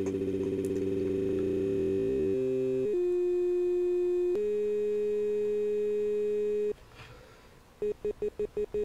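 A voice sample looped so tightly in the KOALA sampler app that it plays as a buzzing pitched tone. Its pitch steps down a few times as the loop points are moved, then it settles into a steady electronic bleep. The bleep stops for about a second, comes back as a quick run of short stuttering bleeps and then holds steady again near the end.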